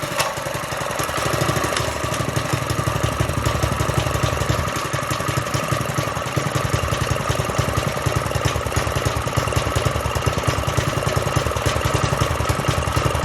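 Single-cylinder four-stroke Predator small engine on a go-kart, just pull-started with the choke set, running at a steady idle.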